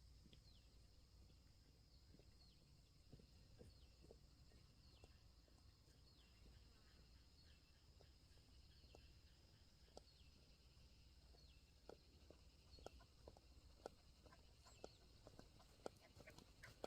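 Faint forest ambience: a short falling chirp repeating about once a second over a steady high hum, with scattered soft clicks and crackles that become more frequent near the end.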